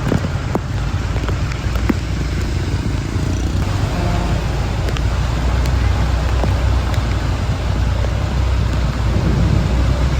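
Road traffic in heavy rain heard while on the move along a flooded road: a steady low rumble of vehicles and wind, with a haze of rain and scattered raindrop ticks.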